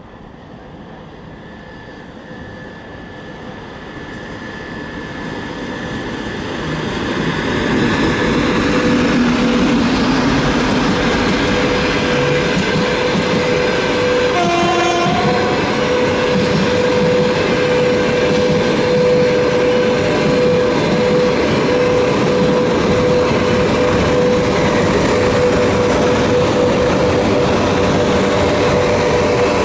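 Freight train hauled by a VL80S electric locomotive approaching and then rolling past close by. It grows louder over the first several seconds, gives a short horn blast about halfway through, and then the wagons run past with a steady whine and wheel clatter.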